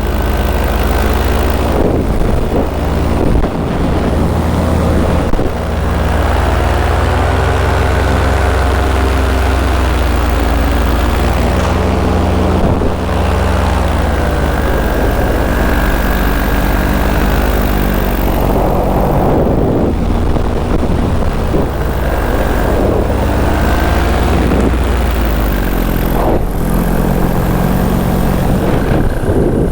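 Paramotor engine and propeller running in flight, with the engine speed rising and falling several times as the throttle changes, over a steady rush of wind on the microphone.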